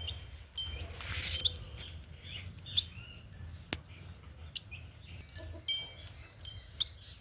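Small birds chirping: many quick, very high chirps repeating, mixed with short clear notes and a few sharp, louder calls.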